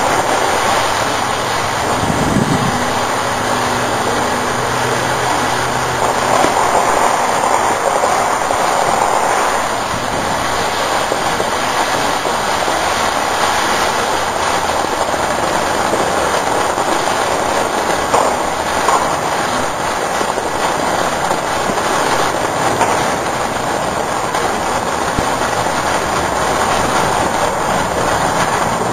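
Consumer firework burning with a continuous, dense crackling hiss that stays steady in level.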